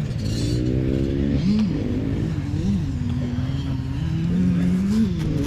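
Dirt bike engine revving as it is ridden, its pitch climbing and dropping several times.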